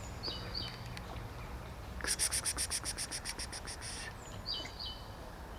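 Small birds calling outdoors: a couple of short high chirps, then a rapid high trill of about eight notes a second lasting about two seconds, then two more short chirps near the end.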